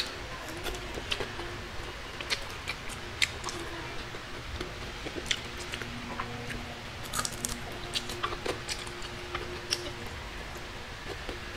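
Close-miked eating sounds: chewing with wet mouth smacks and irregular sharp clicks, from mouthfuls of fried dried fish, rice and red chili eaten by hand.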